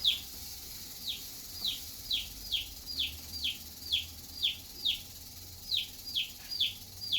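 Domestic feeder chick peeping over and over: short, high peeps, each sliding down in pitch, about two a second, with a short break a little past the middle.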